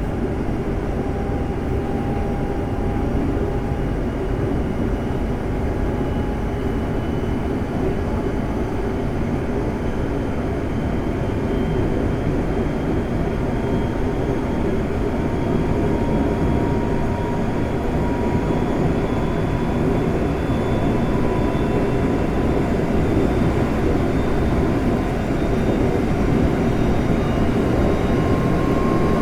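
Interior running sound of a Semboku Rapid Railway 5000 series electric train with Hitachi GTO VVVF inverter control: a steady rumble of wheels on track, over which a faint whine rises slowly in pitch as the train gains speed.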